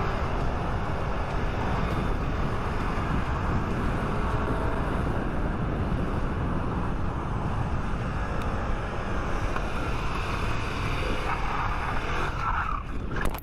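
Motorcycle riding at speed, its engine note wavering faintly under heavy, steady wind rush on the microphone. The sound changes abruptly at the very end.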